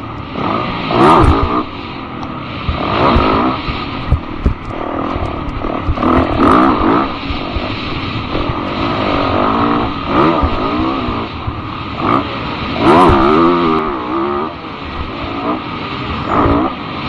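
Motorcycle engine revving up and down repeatedly, with a swell every two to three seconds.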